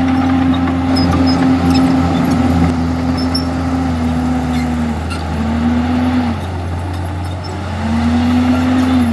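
Komatsu D51EX bulldozer's diesel engine running steadily under load. Its note sags about five seconds in, drops away for a second or so, then climbs back near the end.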